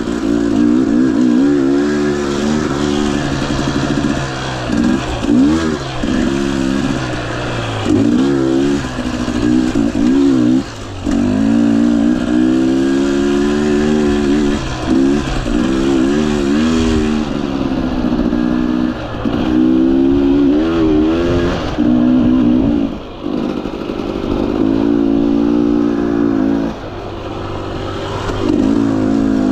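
Two-stroke engine of a Husqvarna TE 250i dirt bike being ridden. Its revs rise and fall over and over as the throttle is worked on and off, with brief drops around 11, 23 and 27 seconds.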